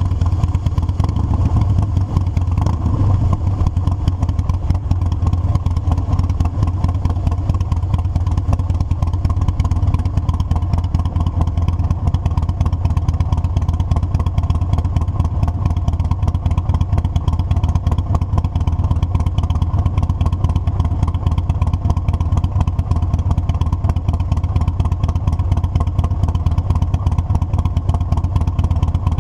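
Motorcycle engine running steadily under way, a low even drone with no change in pace.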